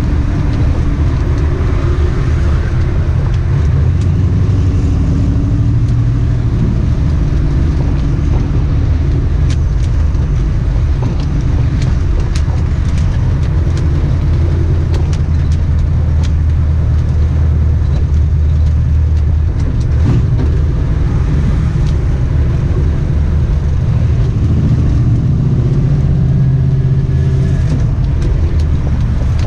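The AMC 360 V8 of a 1979 Jeep CJ7 running under way, heard from inside the vehicle, its engine note rising and falling with the throttle, with road and wind noise.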